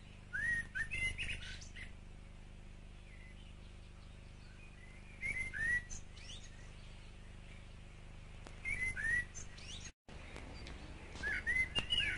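Small birds chirping in short clusters of quick curved notes a few seconds apart, over a faint steady low hum.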